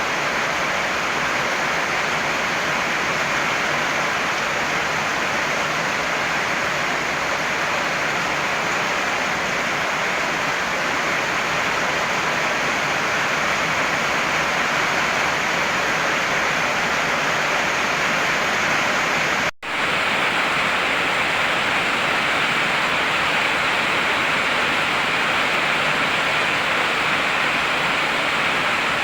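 Heavy rain falling as a steady, dense hiss, with one sudden split-second dropout about two-thirds of the way through.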